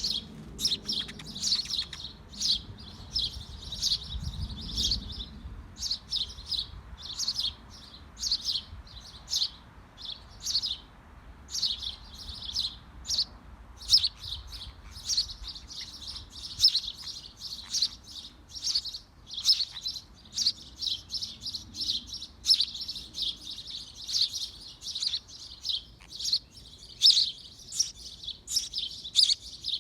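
Small birds in a birdhouse chirping: a continuous run of quick, high chirps, several a second.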